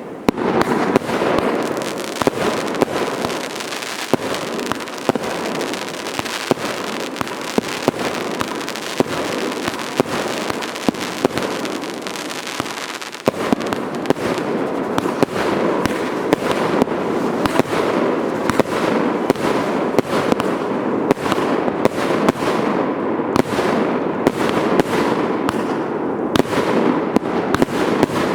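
Fireworks going off: a continuous dense crackle with many sharp bangs, growing busier about halfway through.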